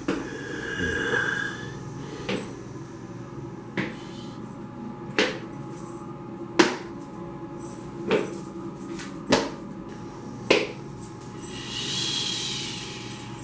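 Seven heavy thuds or knocks, evenly spaced about one every second and a half, over a steady low drone, with a short creaking tone about a second in and a higher squeal near the end.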